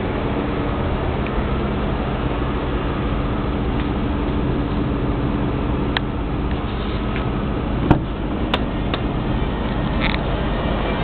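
Stretch limousine idling, a steady low engine hum, with a few sharp clicks around six to nine seconds in.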